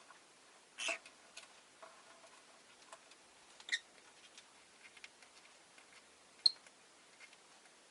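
Peach-faced lovebird in its cage making soft, irregular clicks and taps, with a couple of brief sharper chirp-like sounds. The loudest is a sharp click about six and a half seconds in.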